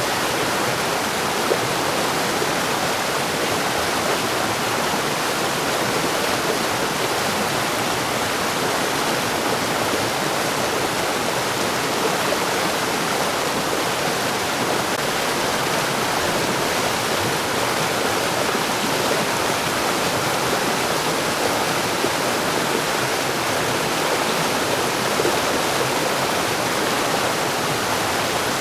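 Mountain stream rushing over rocks, a steady, unbroken flow of water.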